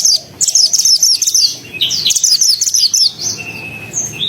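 A pied bushchat (mantenan) singing in fast, dense bursts of rapid high chattering notes, phrase after phrase with short breaks. One brief steady lower whistle comes a little after the middle.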